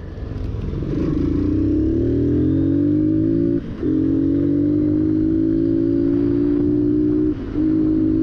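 Motorcycle engine accelerating: its pitch climbs for a few seconds, then dips briefly as a gear is shifted about three and a half seconds in, runs steady, and dips again for another shift near the end.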